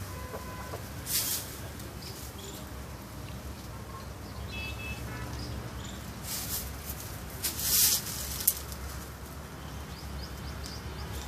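Steady low rumble with faint bird chirps about halfway through, and two short hissing bursts, the louder one about two-thirds of the way in.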